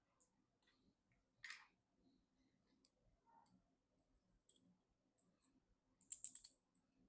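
Faint, sparse clicks and taps of small parts being handled during PC assembly, with a short quick run of clicks near the end.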